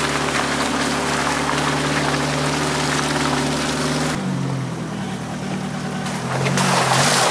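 A vehicle engine running steadily under way, with a rushing noise of tyres and wind. About four seconds in, the sound changes abruptly to a different, cleaner engine note without the rush, and the rushing noise comes back near the end.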